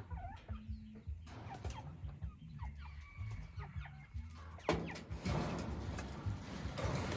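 Hybrid junglefowl clucking with short calls, then a sudden burst of rustling noise about two-thirds of the way in that carries on to the end.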